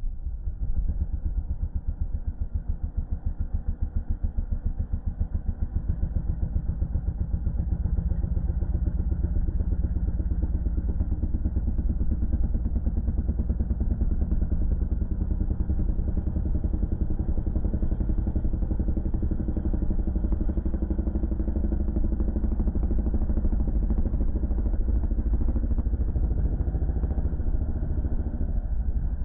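Yamaha dirt bike engine running hard under throttle, heard from on the bike. It builds over the first several seconds, then holds steady with a fast, even pulse.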